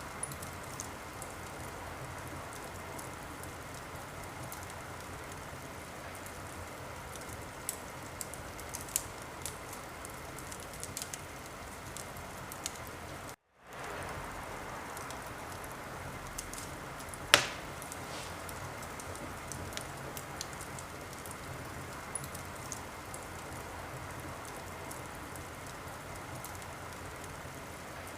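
Wood fire in a fireplace crackling, a steady hiss with scattered small pops and one sharp, loud pop about two thirds of the way through. The sound cuts out for a split second about halfway.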